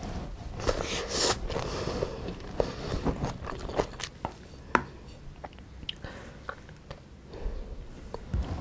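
Close-miked eating: a mouthful of bibimbap being bitten and chewed, with wet mouth sounds and many sharp clicks, busiest in the first half.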